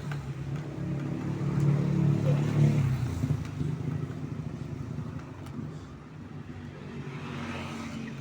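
A motor running with a low, steady pitch, growing louder to a peak a couple of seconds in and then fading away.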